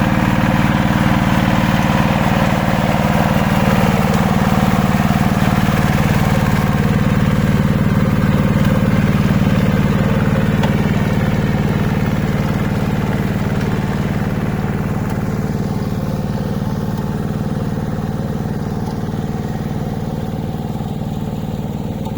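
Hand tractor engine running steadily, growing gradually fainter over the second half.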